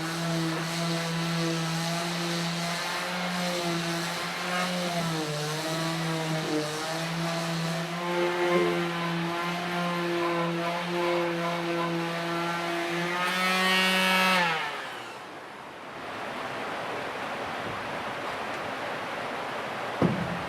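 An electric power tool runs at a high, steady pitch, its speed dipping slightly now and then as it works. About 14 seconds in it speeds up briefly, then is switched off and winds down. After that there is a steady rushing noise and a single sharp click near the end.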